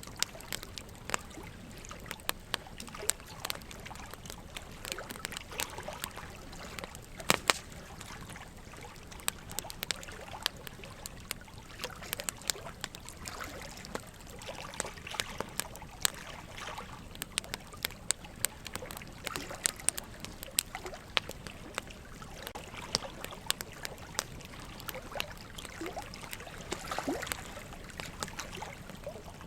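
Wood logs burning in a fireplace, crackling with frequent irregular sharp pops, over a steady trickle of running water.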